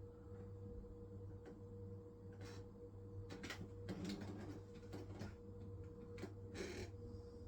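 Hisense washing machine running its wool cycle: a steady motor hum with a faint tone above it, and irregular light clicks and short swishes from the drum, the longest swishes about three and a half and six and a half seconds in.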